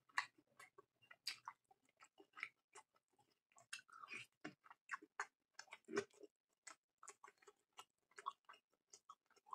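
A person chewing food close to the microphone: faint, irregular short mouth clicks and smacks, several a second.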